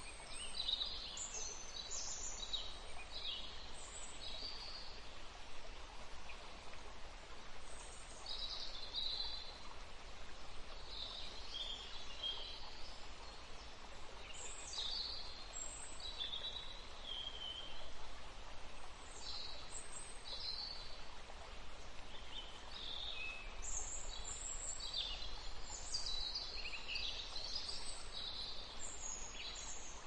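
Small birds chirping in quick high-pitched notes that come in short flurries every few seconds, over a steady background hiss.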